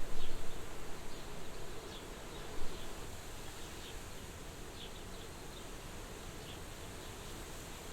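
Soft wind blowing at a window: a gust at the start that dies away within about two seconds, then a steady gentle hiss. Faint, short high chirps are scattered through it.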